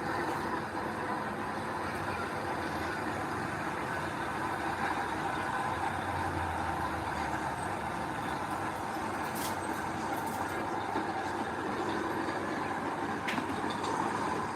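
Heavy diesel earthmoving machinery, bulldozer or dump truck, running steadily.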